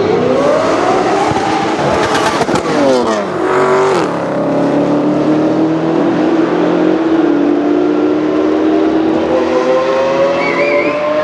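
High-performance car engines accelerating at full throttle in a drag race: a supercharged V8 Dodge Challenger SRT Hellcat and a V12 Lamborghini Aventador on a Capristo carbon exhaust. The engine pitch climbs steeply, with sharp crackles about two to three seconds in. Near four seconds the pitch drops at a gear change, then climbs slowly and steadily again.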